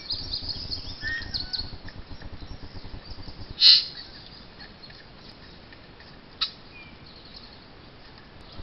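Small birds chirping in woodland, with a loud, sudden sharp sound about three and a half seconds in and a shorter one about six and a half seconds in.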